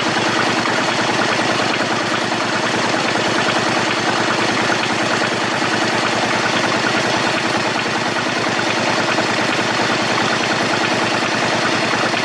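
Honda Shadow 125's small V-twin four-stroke motorcycle engine idling steadily, a fast even beat with no revving.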